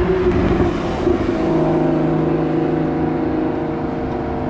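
A car engine running at steady revs, a constant droning note that settles slightly lower about a second in.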